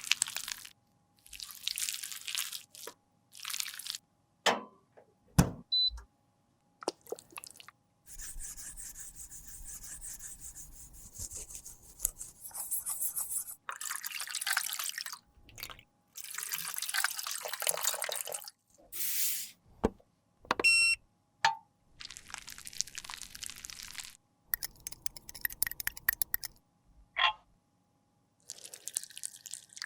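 Close-up sounds of makeup being worked by hand: a string of scraping and rubbing strokes broken by sharp clicks and taps, with a short ringing ping about two-thirds of the way through.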